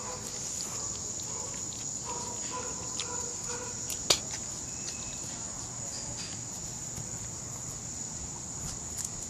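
Steady high-pitched chorus of insects, with one sharp click about four seconds in and a few lighter ticks.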